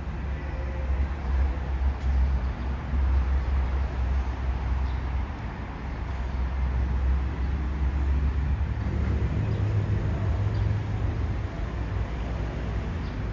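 Steady low rumble of road traffic, with a deeper engine hum standing out for a couple of seconds about nine seconds in.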